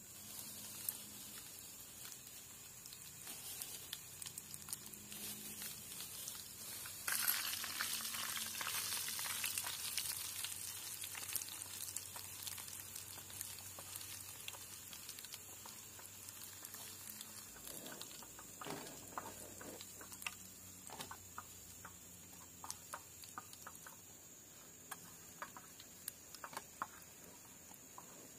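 Food sizzling in hot oil in a pan. The sizzle comes in suddenly about seven seconds in and slowly dies down, with scattered small crackles and clicks after that.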